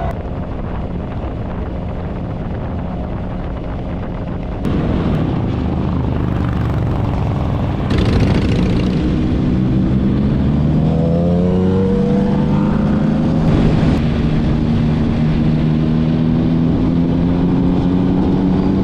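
Motorcycle engine running with wind rush. It gets louder in two sudden steps, about four and a half and eight seconds in, then its pitch rises steadily for a couple of seconds as it speeds up and holds there.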